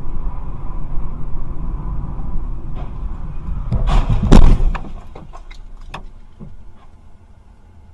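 Car road rumble heard from inside a vehicle. About four seconds in comes a loud bang, followed by a scatter of sharp clicks and rattles, and then the rumble drops away.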